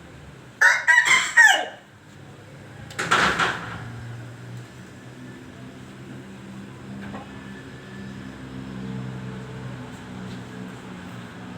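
Aseel rooster crowing: one loud crow about a second long near the start, then a shorter, harsher call about three seconds in. A steady low hum continues underneath.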